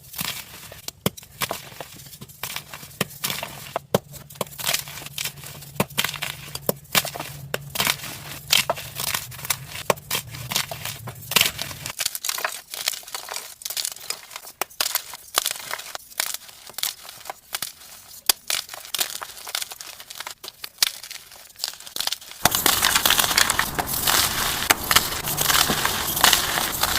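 Blocks of gym chalk being crushed, a rapid run of crisp crunches and crackles. Near the end the crunching turns denser and louder.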